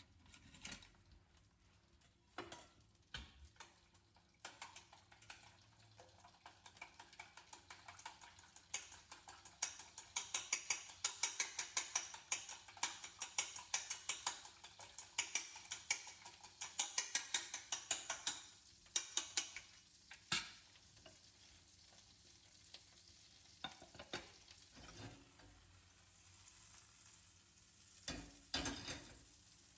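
Egg and shredded carrot being beaten in a bowl: quick, even stirring strokes for about a dozen seconds, then a few separate knocks.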